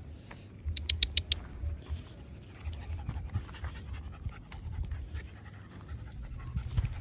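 A dog panting, with a quick run of about six sharp, high clicks about a second in.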